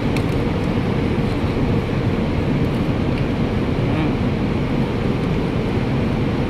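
Steady low rumble of background noise, unbroken and without distinct events.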